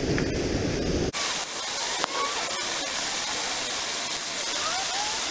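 Low buffeting rumble of wind on the microphone, then, after an abrupt cut about a second in, the steady hiss of a rushing creek.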